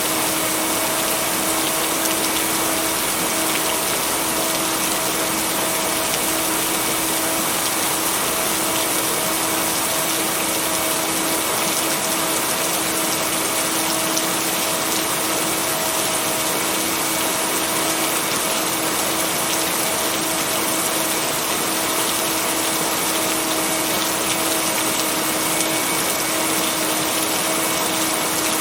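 Steady, even rain noise with no thunder, with a steady low tone mixed in underneath, the kind of binaural-beat tone blended into rain tracks for sleep.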